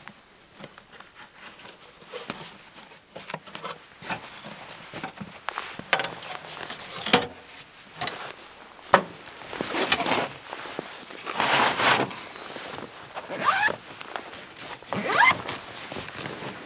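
A zipper pulled open or shut several times in quick succession, each pull a short swish, the last two rising in pitch. A couple of sharp knocks come before them.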